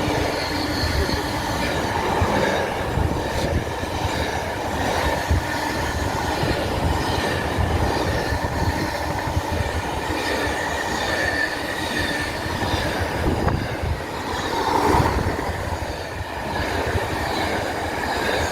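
A train passing close by: a steady rumble of wheels on the rails with a faint, high squeal from the wheels.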